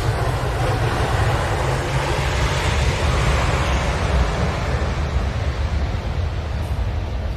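Jet airliner taking off or landing close by: a loud rushing roar with a deep rumble underneath, swelling over the first few seconds and slowly easing off.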